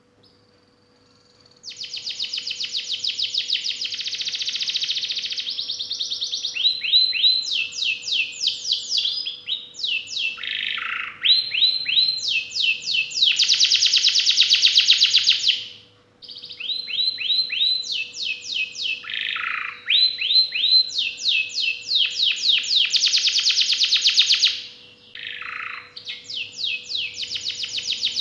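Male domestic canary singing a long, full song of fast trills and rolls, phrase after phrase of rapidly repeated notes, some sweeping down in pitch. The song starts about a second and a half in and breaks off briefly about halfway.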